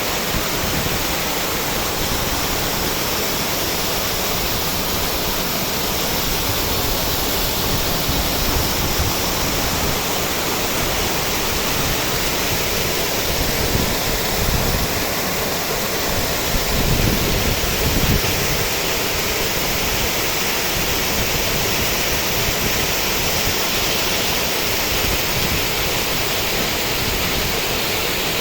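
Guadalmedina river water rushing steadily, a constant hiss of flowing water, with brief low rumbles about 14 and 17 seconds in.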